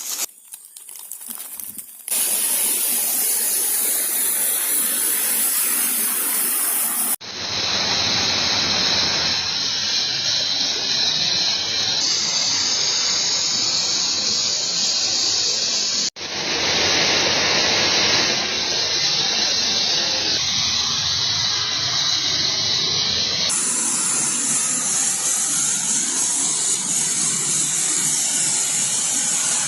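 Steady, loud hissing noise that changes character abruptly several times where clips are cut together.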